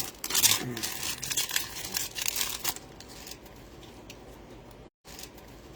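Plastic trading-card pack wrapper crinkling and tearing open in the hands for about three seconds, then fading to faint handling clicks.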